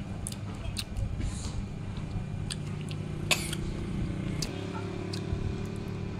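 Close mouth sounds of someone eating jambolan (Java plum) berries: chewing with scattered small wet clicks, one sharper click about three seconds in, over a steady low hum.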